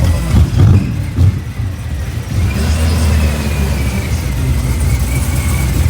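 Muscle car engine revving in a few sharp blips in the first second or so, then rumbling steadily at a low pitch.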